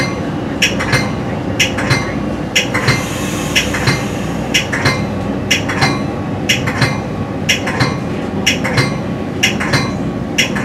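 Metra commuter train running at speed on its track: a steady rumble with a regular run of sharp clacks, often in close pairs, the clickety-clack of the wheels crossing rail joints, heard from inside the leading car.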